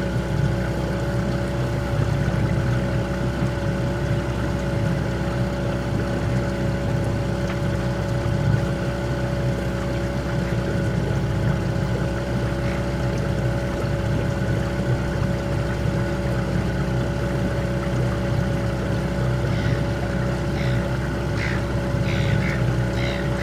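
Small boat's outboard motor running at a steady speed, an even unchanging hum. A few short high chirps come near the end.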